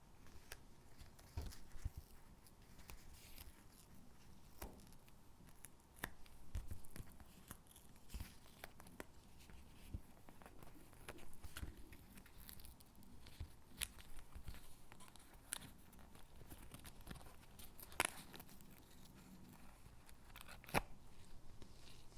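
Stickers being peeled from their backing and pressed onto paper gingerbread cutouts: soft peeling and paper rustling, broken by scattered light clicks and taps, with two sharper snaps near the end.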